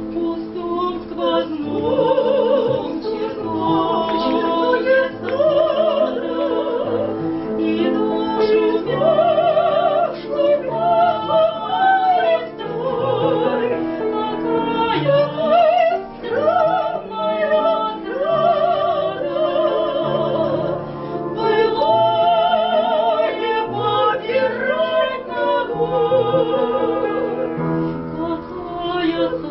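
Operatic soprano singing with a wide vibrato, sustaining long notes over an instrumental accompaniment.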